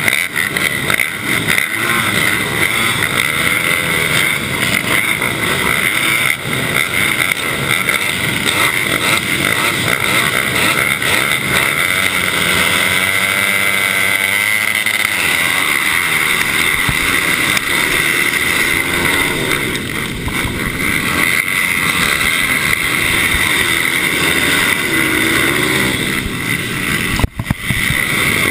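Racing mini bike engines running hard at high revs, their pitch rising and falling as bikes go by. The sound cuts out briefly near the end.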